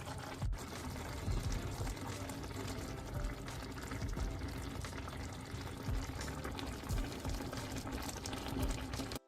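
Water pouring steadily, with soft background music underneath.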